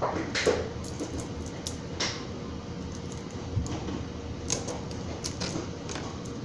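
Scattered light clicks and knocks of kitchen items being handled, a few sharper ones in the first two seconds and again past the middle, over a steady low hum.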